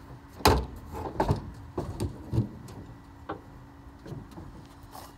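A run of irregular knocks and clunks, the loudest about half a second in, over a steady low hum.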